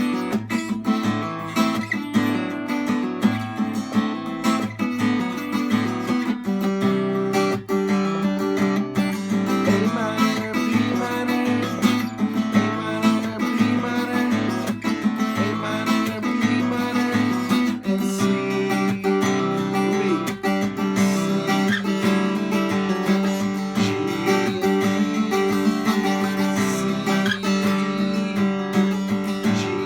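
Acoustic guitar strummed steadily in a rhythmic pattern, moving through a series of chords with hammer-ons and slides.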